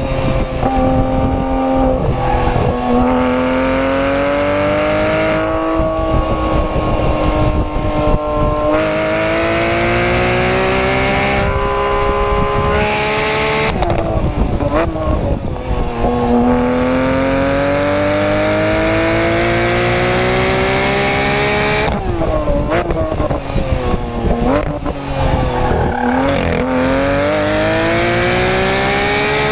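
Porsche 991 GT3 RS flat-six engine at full song on track, pulling in long rising sweeps with sudden drops in pitch at each gear change. Around the middle and again later it slows with a series of quick rev blips on the downshifts, then pulls hard again near the end.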